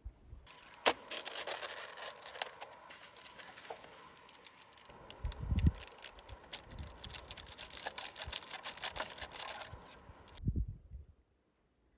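Close handling noise of camping gear: rustling and scraping with many small clicks, and two low thumps, one about halfway and one near the end. It cuts off suddenly shortly before the end.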